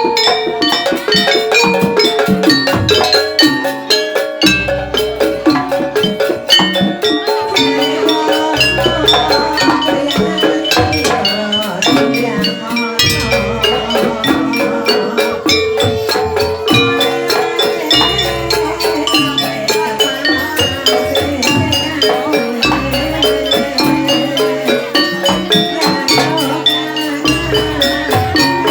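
Live Javanese jaranan gamelan music: quick, dense strikes on tuned metal percussion over drumming, with a deep low stroke about every four to five seconds.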